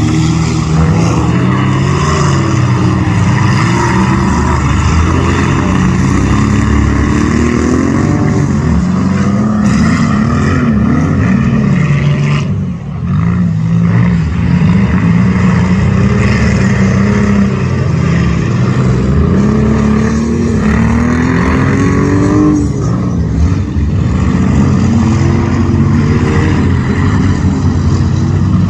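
Race car engines running hard, several at once, their pitch rising and falling as they accelerate and lift off, with a brief lull about halfway through.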